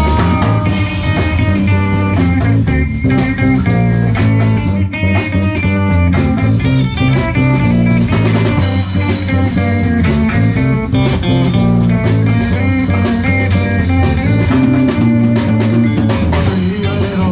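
Live rock band playing an instrumental passage between vocal lines: electric guitar playing a busy run of notes over bass guitar and drum kit.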